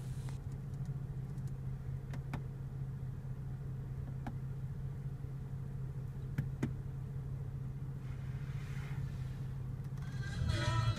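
BMW 435i's turbocharged inline-six idling, a steady low hum heard inside the cabin, with a few soft clicks from the dash controls. Music comes in near the end.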